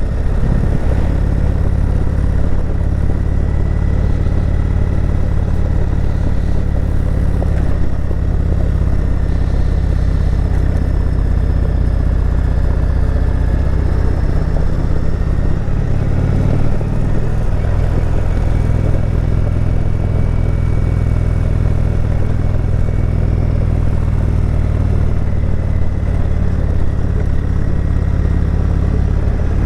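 Indian Chieftain Dark Horse's V-twin engine running steadily under way, heard from the rider's position. The engine note shifts briefly about sixteen seconds in.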